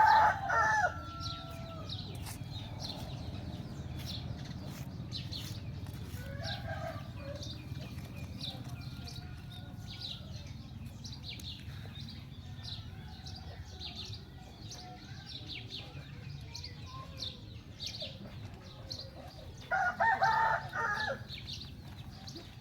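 Two loud pitched animal calls, each about a second long, one at the very start and one about twenty seconds in. Many faint high chirps and a steady low hum run underneath.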